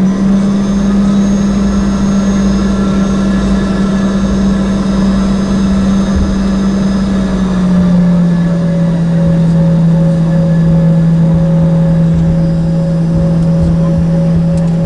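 Embraer ERJ-145's rear-mounted Rolls-Royce AE 3007 turbofan engines running, heard from inside the cabin: a loud steady drone with a thin high whine. About eight seconds in the drone drops slightly in pitch and the whine fades.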